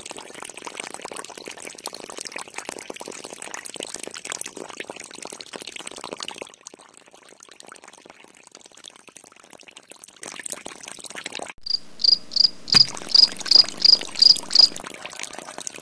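A thin stream of water trickling from a small plastic tube onto wet soil and into a little steel pot, with a faint crackle. Near the end a cricket chirps quickly and loudly, about three times a second for some three seconds.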